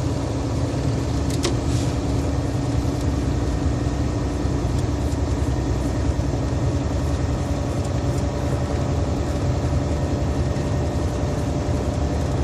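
Loaded semi truck's diesel engine and road noise, heard from inside the cab while cruising steadily at highway speed, with a low drone and a steady hum. A brief click sounds about a second and a half in.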